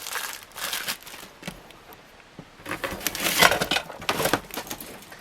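Packing materials being handled as ceiling fan parts are unwrapped: irregular crinkling and rustling, loudest around three to four seconds in.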